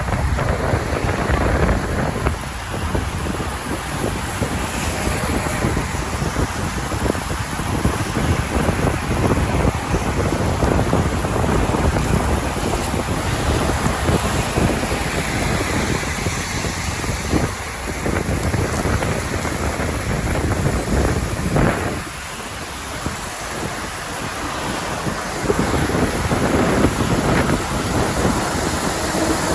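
Wind buffeting the microphone of a moving rider, over a steady hiss of rain; it eases a little for a few seconds past the twenty-second mark.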